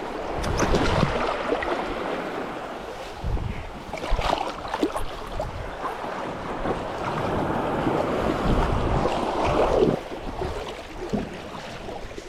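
Sea water sloshing and splashing around a stand-up paddleboard, rising and falling unevenly, with wind on the microphone.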